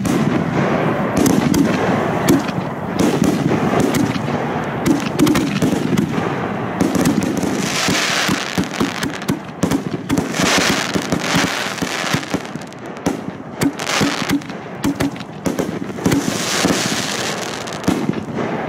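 A firework going off continuously: a dense run of rapid crackling pops with several surges of hiss, stopping suddenly near the end.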